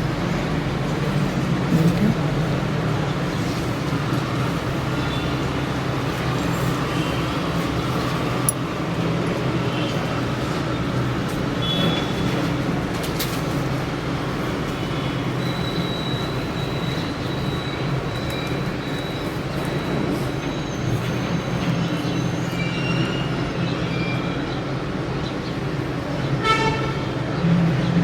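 Steady background hum of outside traffic, with a horn sounding briefly near the end.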